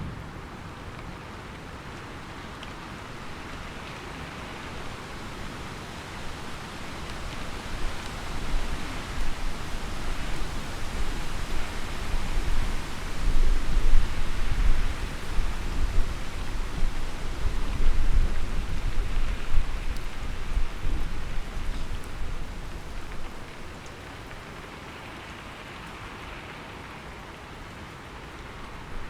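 Steady heavy rain falling on a surface, with a long roll of thunder rumbling in about a quarter of the way in, growing loudest around the middle and fading out before the end.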